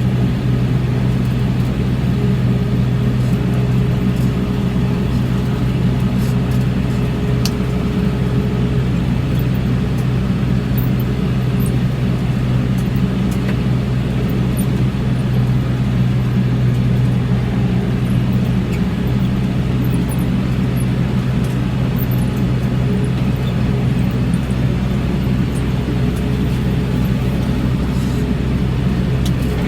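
Tractor engine running steadily at a constant speed, a loud, even low drone with no change in pitch.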